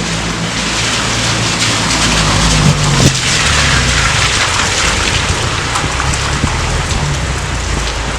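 Steady heavy rain with individual drops pattering sharply, one louder drop hit about three seconds in, over a continuous low rumble.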